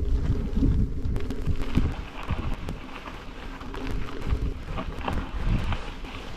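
Wind buffeting the microphone of a bike-mounted action camera: a low rumble that rises and falls in gusts, strongest in the first two seconds.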